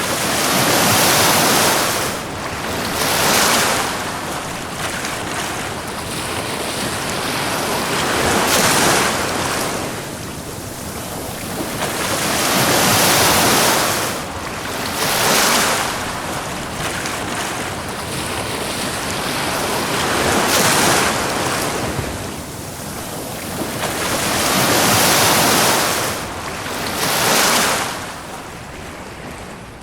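Ocean waves breaking and washing up a beach, the surf swelling and ebbing every few seconds. The level falls off near the end.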